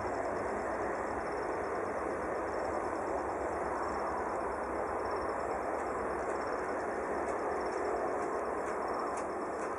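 Steady distant jet engine noise from a Boeing 747-400's four Pratt & Whitney PW4056 turbofans, an even rushing rumble that holds at one level.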